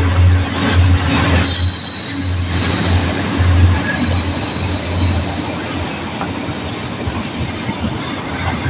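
KTM Class 26 diesel-electric locomotive passing with its engine running in a low, steady hum that fades about five seconds in, then container flatcars rolling steadily over the rails. A thin, high wheel squeal sounds from about one and a half to five seconds in.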